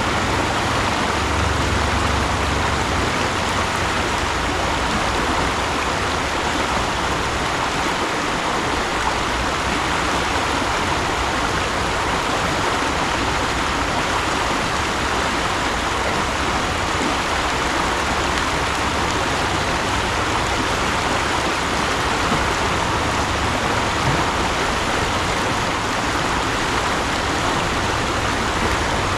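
Mountain stream rushing and splashing steadily over rocks, a constant hiss of running water.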